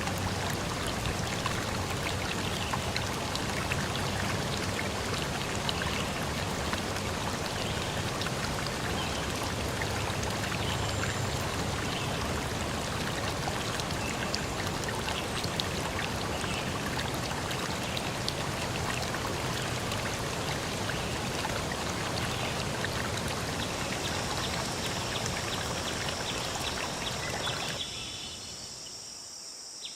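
Forest stream flowing, a steady rush and splash of clear water. Near the end it cuts off abruptly, leaving a quieter forest background with a high steady tone.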